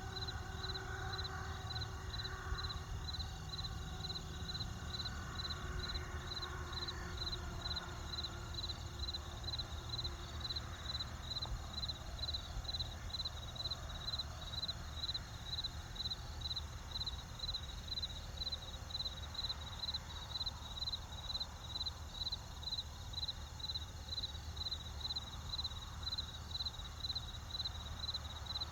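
Crickets chirping in a steady, even rhythm of about two high-pitched chirps a second, over a low steady rumble.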